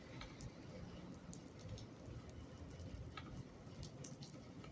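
Faint background: a steady low rumble with scattered light ticks.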